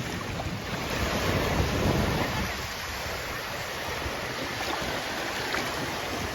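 Sea waves washing onto the shore, a steady rush of surf that swells louder about one to two seconds in, with wind on the microphone.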